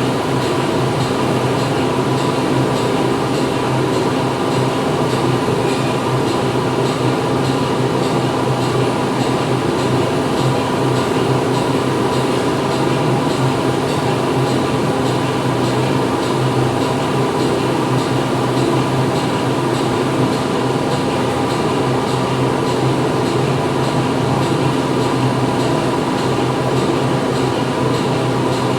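Steady factory-floor machinery noise: a constant mechanical hum and whir, holding several fixed tones, with no change in level.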